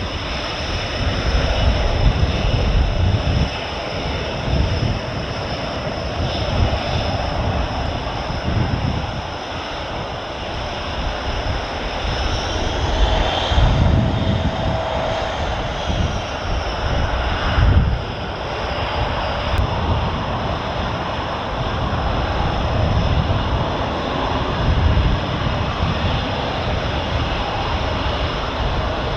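Military jet engine noise, continuous and fairly loud, with a high turbine whine that rises and then falls about halfway through.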